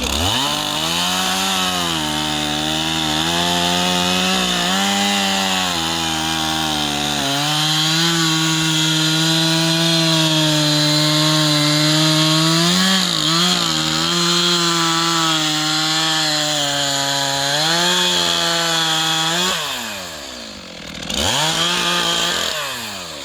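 Chainsaw revving up and cutting through the butt end of a spruce log, its engine held at high speed under load with small dips. It drops off about twenty seconds in, revs briefly once more, and falls away again near the end.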